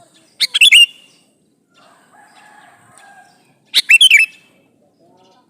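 Male sooty-headed bulbul (kutilang) giving its call to a female: two short, bright phrases of quick notes, about three seconds apart.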